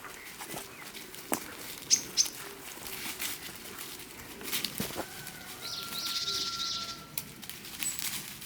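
Footsteps and scattered clicks on a damp forest path, with wild birds calling: two short high chirps about two seconds in, then a longer buzzy call over a held whistle-like note from about five to seven seconds in.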